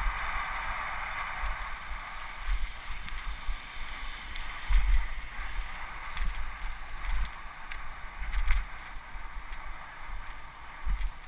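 Wind rushing over a helmet-mounted camera's microphone while moving at speed. Low gusty rumbles come and go, with a few sharp knocks about halfway through and again near the three-quarter mark.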